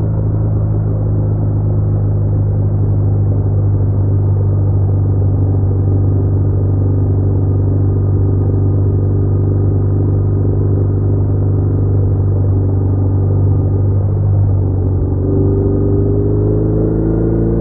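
BMW R1200R's boxer-twin engine running steadily while riding, a loud low drone. Near the end a higher tone rises as the engine picks up revs.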